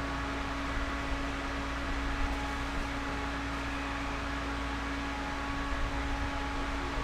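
Steady interior noise inside a JR Series 211-5000 electric train car: an even hiss of background noise with a constant low hum and rumble, unchanging throughout.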